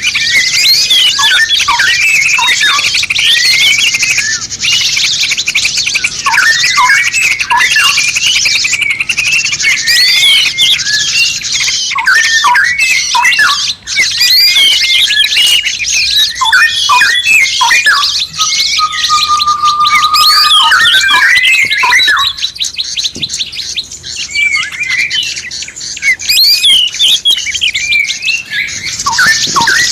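Dense chorus of songbirds calling over one another: quick sweeping whistles and chirps over a constant high, buzzy trill, with one longer held whistle about two-thirds of the way through.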